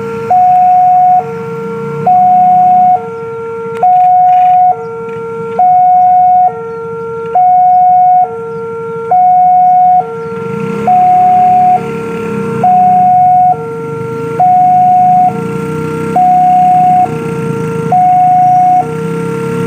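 Railway level-crossing warning alarm sounding a loud, steady two-tone electronic high-low signal, about one high-low cycle every second and three-quarters, the warning that a train is approaching. A low rumble grows underneath from about halfway through.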